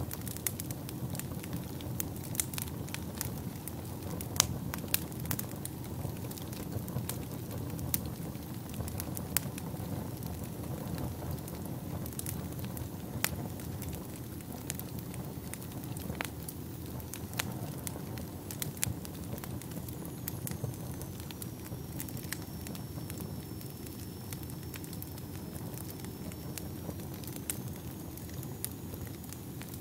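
Wood fire burning in a fireplace: a steady low rumble of flames with frequent sharp crackles and pops. A faint thin high whistle runs through the second half.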